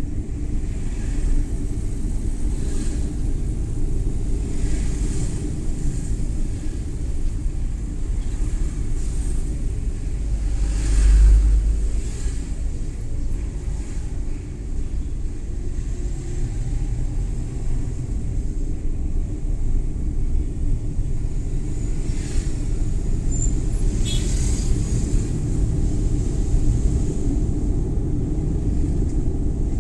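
Cabin sound of a Suzuki Every Wagon (DA64W) kei van on the move: a steady low rumble of engine and road noise, swelling louder briefly about a third of the way in.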